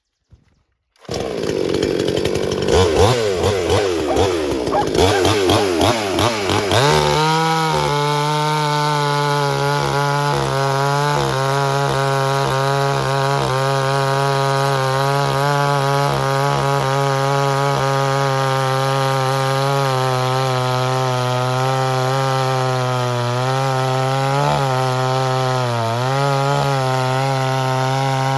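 Pinkway 63cc two-stroke gas chainsaw cutting through a log at full throttle. It starts suddenly about a second in and is uneven for several seconds, then settles into a steady high-revving note, dipping briefly a few times near the end.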